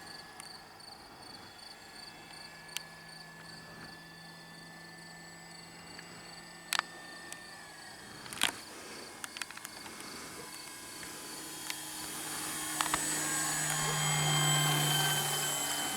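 Crickets chirping in a steady, even pulse, over the faint steady hum of an electric model plane's motor and propeller, which grows louder over the last few seconds as the plane comes closer. A couple of sharp clicks sound about halfway through.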